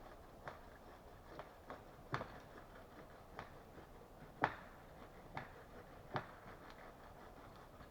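Faint, irregular sharp knocks and cracks of wood being handled, about eight in all, the loudest about four and a half seconds in.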